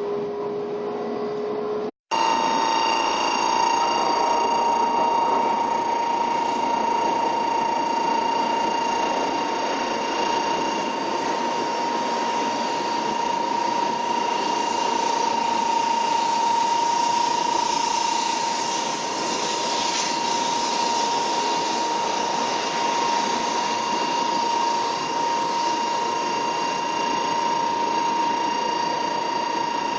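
Steady cabin noise inside an N700 series Shinkansen car, with a constant high whine over an even rush of noise. The sound drops out for an instant about two seconds in, then carries on unchanged.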